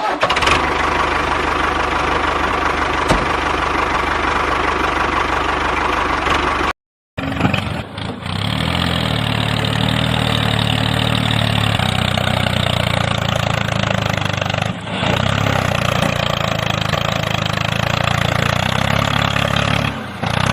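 A steady engine or motor running sound, cut to complete silence for a moment about seven seconds in, then carrying on with a lower, even engine note.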